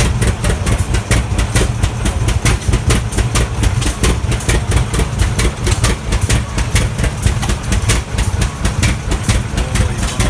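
Antique tractor engine running steadily at idle, with a rapid regular popping of its firing strokes, about five a second.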